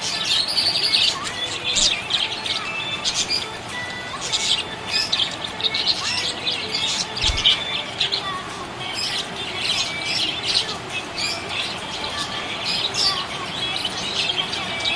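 Several budgerigars chirping and chattering in a steady stream of quick, high chirps with occasional harsher squawks.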